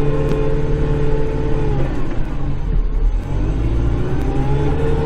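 Kubota Grand L5740 tractor's diesel engine running under load, heard from inside the cab. Its note drops about a second and a half in, then climbs back up toward the end.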